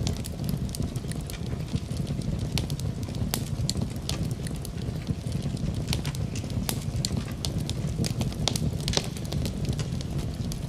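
Fire burning in a fireplace, crackling with irregular sharp snaps and pops over a steady low rumble.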